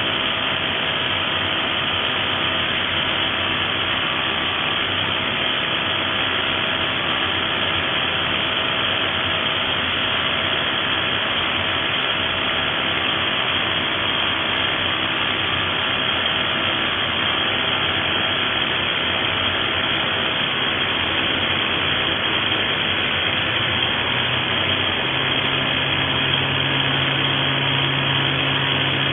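XCORT XZC06-26 SDS-plus rotary hammer running continuously with a steady mechanical noise. A lower steady tone comes in near the end.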